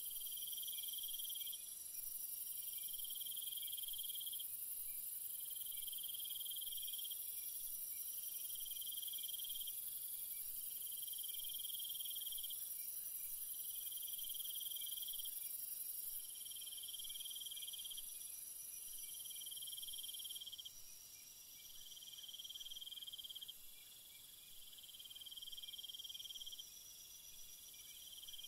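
Night jungle insect chorus: a steady high shrill of crickets and other insects, with a louder chirping call that repeats about every two seconds. The high shrill drops a little in level in the second half.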